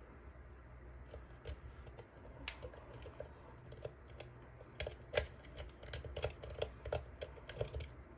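A pick working the pins inside a dimple lock cylinder: small, irregular metallic clicks and scrapes, sparse at first and coming thicker and louder from about halfway through.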